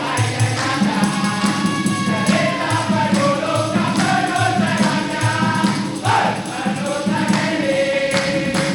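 A group of voices singing together over a steady, regular drumbeat.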